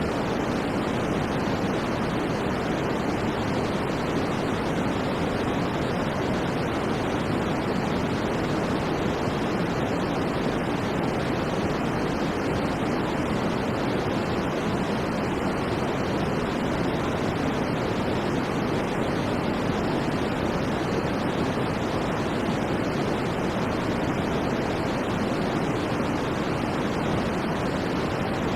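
Steady, unchanging sleep 'white noise': an even rushing hiss, fuller in the low and middle range and thinning toward the top, with no breaks or changes.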